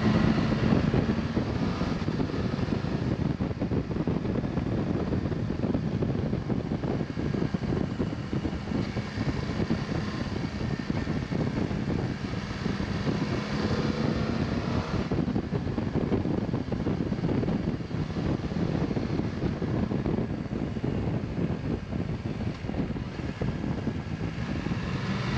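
Motorcycle engine running at road speed under heavy wind rush, picked up by the action camera's own microphone rather than a helmet mic. The engine note fades in and out under the steady wind.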